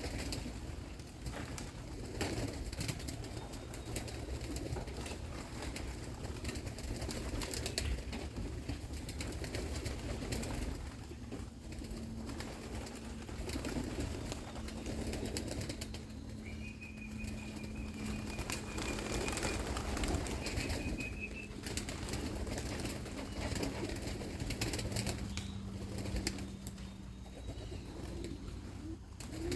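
Young racing pigeons cooing at the loft, with a steady low hum underneath and a faint high whistle for a few seconds midway.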